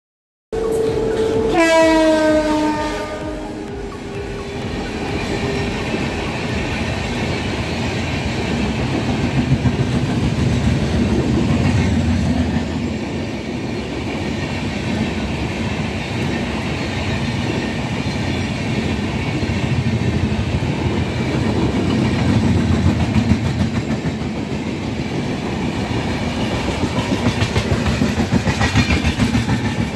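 A locomotive horn sounds about a second in for roughly two seconds, falling in pitch. Then an oncoming passenger train rushes past on the adjacent track, its wheels rumbling and clattering over the rail joints. It is heard from the side of a moving train.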